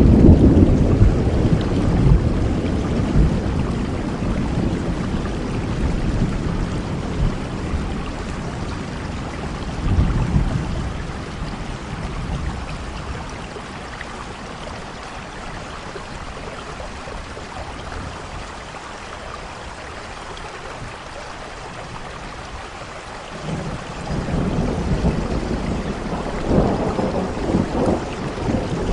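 Heavy rain falling steadily with rolling thunder. A loud rumble at the start dies away over several seconds, a short swell of thunder comes about ten seconds in, and after a quieter stretch of rain alone the thunder rumbles again from about twenty-four seconds on.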